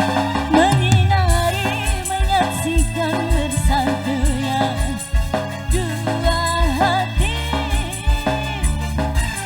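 Tarling-dangdut band music through a PA system. An ornamented lead melody bends and wavers in pitch over a steady bass line and regular low drum beats.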